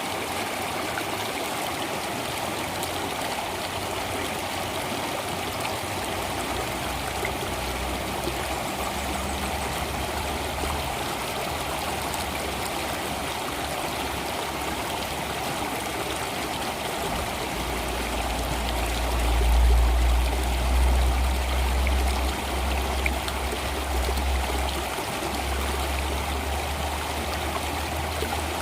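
Water flowing steadily, with an even rushing splash. A deep low rumble comes and goes beneath it and swells to its loudest about twenty seconds in.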